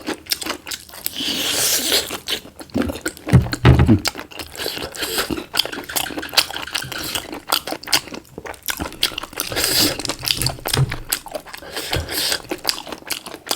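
Close-up eating sounds: crunching, chewing and biting on black chicken pieces, with irregular crackles and a few low thumps.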